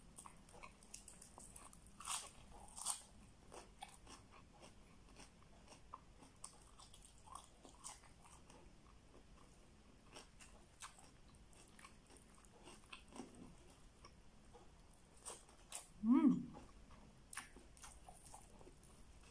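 Mukbang eating sounds: chewing and crunching of lettuce and chicken, heard as scattered short crisp clicks and crackles. One louder, short pitched sound comes near the end.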